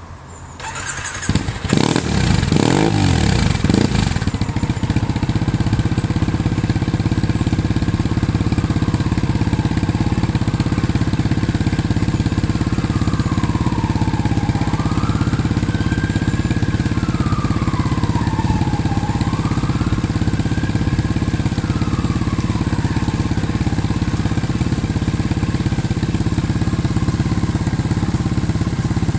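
Triumph Bonneville parallel-twin engine starting about a second in, revved a few times, then running at a steady idle. A siren wails faintly in the middle.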